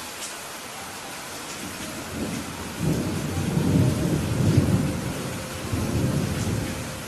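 Steady rain falling, with a roll of thunder that builds about two seconds in, rumbles loudest in the middle and fades away near the end.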